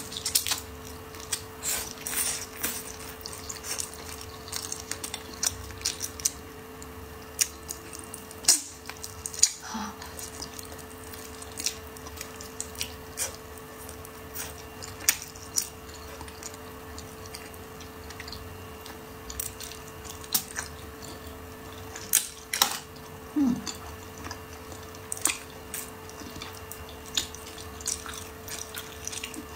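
Close-miked eating: a person chewing braised pig's trotter and dried green beans, with irregular wet mouth clicks and smacks throughout.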